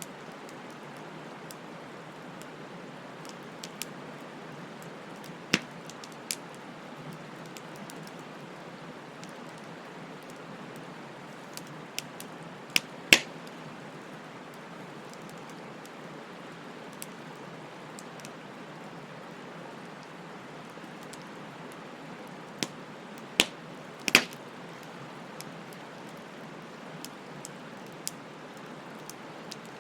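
Wood bonfire burning: a steady hiss with scattered sharp crackles and pops, the loudest pops a little under halfway through and again about four-fifths of the way through.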